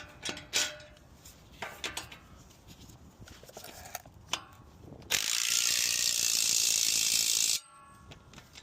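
Hand tools clicking and clinking on metal steering parts, with ratchet-like clicks, then a loud steady hiss of about two and a half seconds that starts and stops abruptly.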